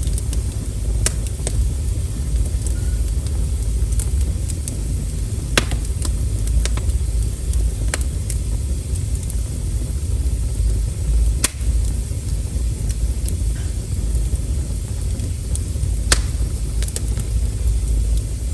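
Wood fire crackling: irregular sharp pops and snaps every second or few over a steady low rumble.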